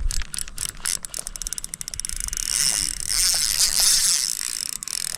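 Fishing reel being cranked to retrieve a spinner lure: a fast, steady run of fine clicking from the reel's gears.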